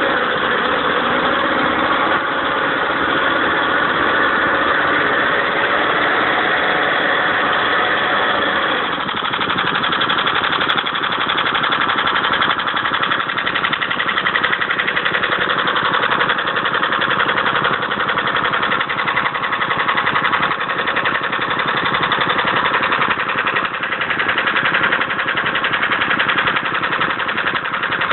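Qualcast Suffolk Punch 35S petrol cylinder mower's engine running steadily. About nine seconds in its note changes and settles into a pulsing beat, consistent with dropping back to tick-over.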